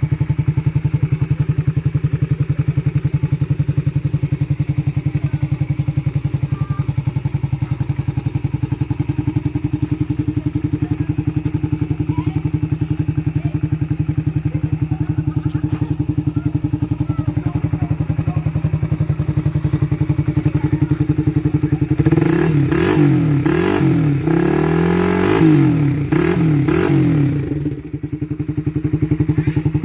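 Honda CB150R's single-cylinder engine idling through an aftermarket CKD exhaust, then blipped through a series of quick revs, rising and falling, about 22 seconds in, before dropping back to a steady idle.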